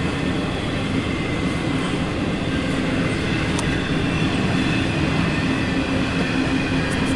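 The cars of a CSX intermodal freight train rolling past: a steady rumble of wheels on rail with a faint steady high squeal, and one sharp click about three and a half seconds in.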